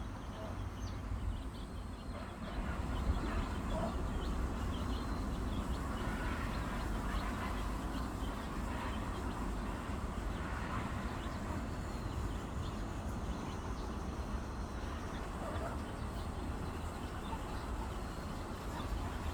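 A mother hen and her chicks calling: many short, high peeps scattered throughout, over a steady low rumble.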